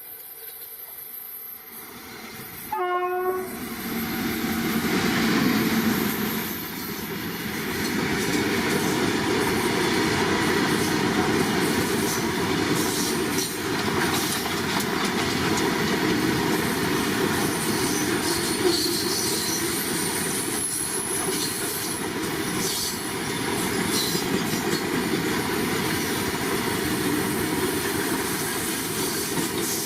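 A locomotive horn gives one short blast about three seconds in. A train then runs past at speed, with a steady loud rumble and wheel clatter on the rails.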